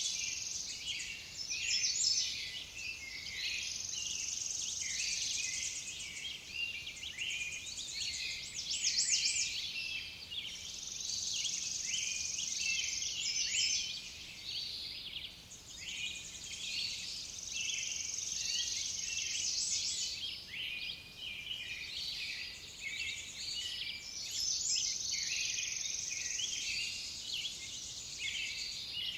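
A dense chorus of high-pitched animal chirps and trills. A buzzy trill recurs every few seconds above a continuous twittering.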